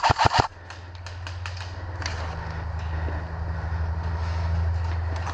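The tail of a rapid full-auto burst from an airsoft gun, about eight shots a second, stopping about half a second in. It is followed by a steady low hum that slowly grows louder, with faint scattered clicks of distant shots.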